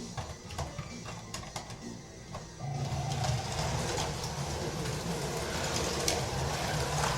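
1/32 Carrera Digital slot cars racing on a plastic track: a few scattered clicks, then, under three seconds in, a steady mechanical buzz of the cars' small electric motors and wheels on the track sets in and runs on.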